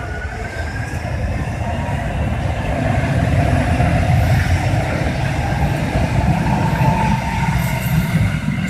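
Light-rail train running on the rails: a steady low rumble and rattle that grows louder over the first few seconds, with a faint whine rising in pitch during the first two seconds.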